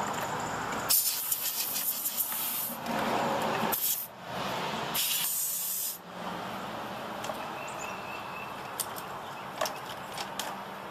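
Can of compressed air spraying into a computer case to blow out dust, in three hissing bursts, the first about two seconds long and the last ending about six seconds in. After that a duller steady noise with a faint low hum and a few light clicks.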